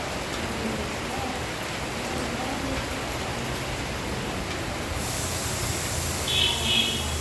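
Steady rain falling, an even hiss that grows brighter about five seconds in. Near the end there is one brief high-pitched chirp.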